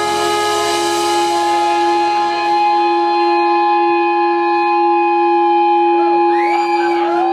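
A rock band holds a long sustained final note or chord, with the low notes dropping out partway through. Near the end, audience whistles and cheers come in over it.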